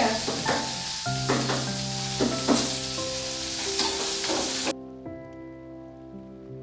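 Food sizzling as it fries in hot oil in a pan, with several sharp scrapes or crackles mixed in. The sizzle cuts off abruptly about three-quarters of the way through.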